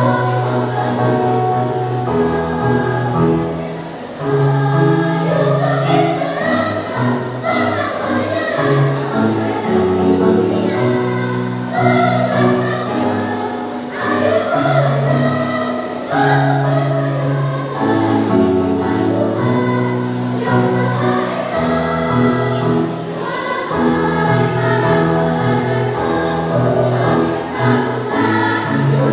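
Elementary school children's choir singing in parts over a low accompaniment whose notes change every second or two.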